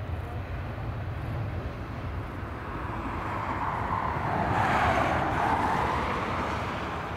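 Airbus A319 jet engines passing by, a rumble that grows louder to a peak about five seconds in and then fades.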